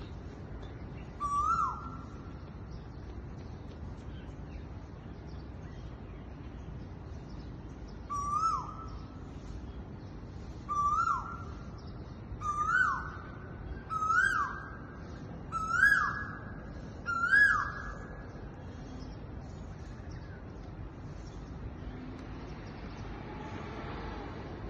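Asian koel calling: seven loud ko-el calls, a single one near the start, then after a pause a run of six that come quicker and grow louder, each a sharp rising note that drops away.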